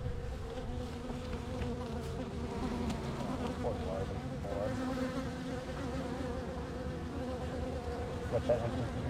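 Many honeybees buzzing around their hive: a steady hum of wingbeats, its pitch wavering now and then as single bees fly close past.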